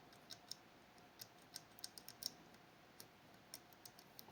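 Faint, irregular light clicks of a lock pick working and testing the levers inside a Fichet 484 lever sidebar lock.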